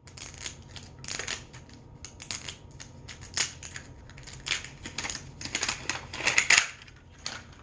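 Plastic toy packaging crinkling and crackling in irregular bursts as it is handled and torn open, loudest about six seconds in.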